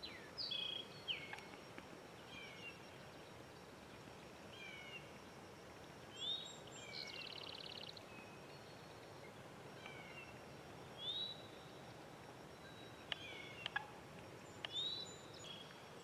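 Scattered short bird calls, mostly quick chirps that slur downward, over a faint steady outdoor hiss. A brief rapid trill comes about seven seconds in, and a few faint clicks near the end.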